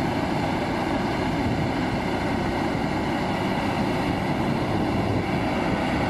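Heavy truck's diesel engine running steadily, mixed with road traffic noise.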